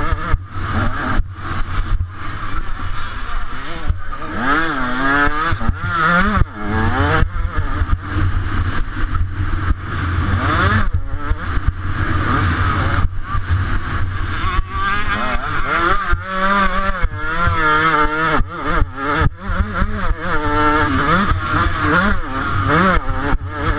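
125cc motocross bike engine ridden hard, its revs sweeping up and down over and over as it accelerates and backs off.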